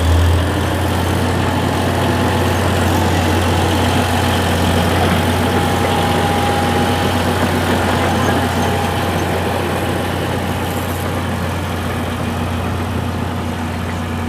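Engine idling steadily: a low, even hum that eases slightly towards the end.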